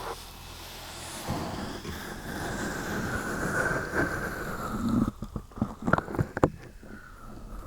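Close-miked ASMR trigger sounds: a rubbing, scratching noise for about five seconds, then a quick run of sharp, irregular taps and clicks.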